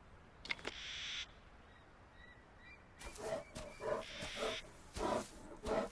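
Grizzly bear breathing in breathy huffs, then from about three seconds in giving a run of short low growls, roughly two a second.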